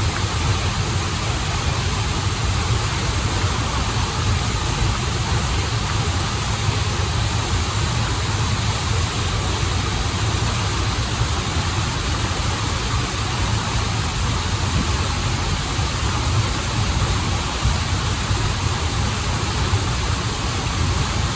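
Waterfall and stream water rushing steadily, with a deep, even rumble underneath.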